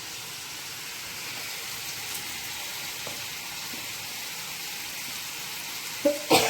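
Chicken pieces frying in a pan of oil, giving a steady, even sizzle. A sharp clack, like a utensil striking the pan, comes near the end.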